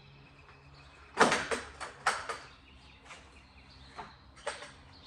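A run of sharp knocks and clatters of hard objects being handled, loudest about a second in, with smaller clicks following, over a faint steady hum.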